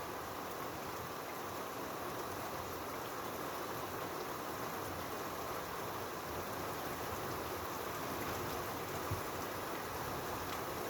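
Steady rain falling, an even hiss with one brief low tap about nine seconds in.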